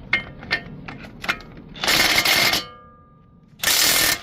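Impact wrench loosening the strut-to-knuckle bolts in two short bursts, the second near the end, with a metallic ring lingering after the first. Sharp metal clicks of the socket and bolt come before the first burst.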